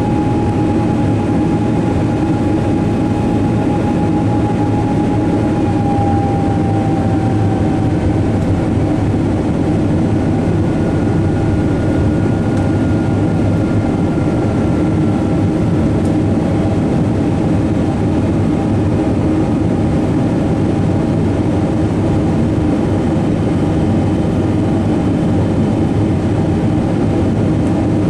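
Steady cabin roar of a Boeing 777-200 airliner in flight, its twin jet engines and the airflow giving a constant low rumble with a few faint engine tones that drift slightly in pitch.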